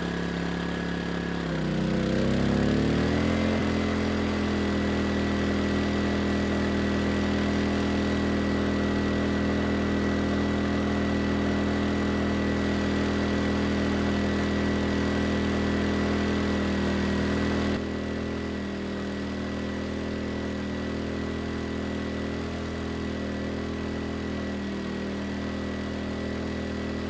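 Erayak 4500PD inverter generator's engine speeding up over a couple of seconds as a 3,000-watt load comes on, then running steadily under that load without strain. About 18 seconds in its sound eases slightly and stays steady.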